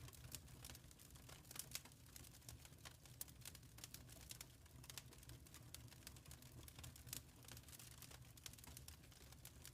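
Wood fire crackling faintly: frequent small irregular pops and snaps over a low steady rumble.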